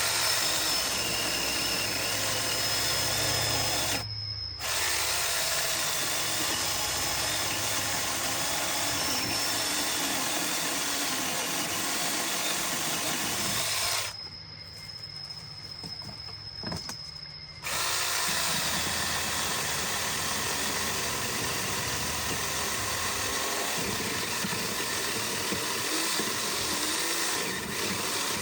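Chainsaw running steadily under load, cutting through branches. It is cut off abruptly twice: briefly about four seconds in, and for about three seconds in the middle.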